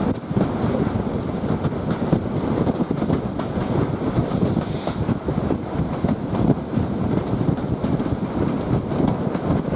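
Steam-hauled heritage passenger train running downhill, heard from aboard: a steady rumble of wheels on rail with rattles and clicks, wind on the microphone, and a brief hiss about five seconds in.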